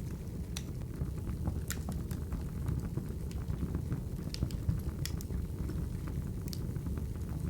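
Crackling wood fire: a steady low rumble of flames with scattered sharp pops and snaps.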